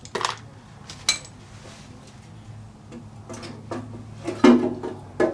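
Irregular metal clinks and clattering of hand tools and bolts against the engine as the oil pan is worked off. Two sharp clinks come near the start, and a busier run of clatter builds toward the end.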